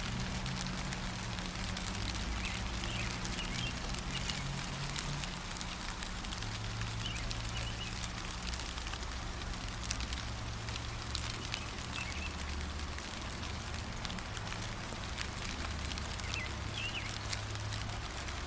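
Steady gentle rain, with single drops ticking close by and a few short, faint bird chirps now and then. A low steady hum lies underneath.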